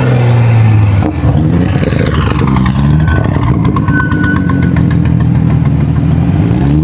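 Car engine running loudly, its pitch rising and falling as it is revved, with a short run of rapid clicks in the middle.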